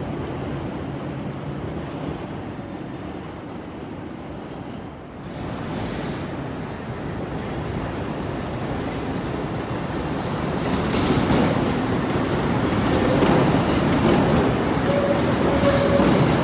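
CTA 'L' rapid-transit train running through the Tower 18 interlocking: a steady rumble of wheels on elevated track that grows louder about ten seconds in, with clacking over the switches and crossings and a few short wheel squeals near the end.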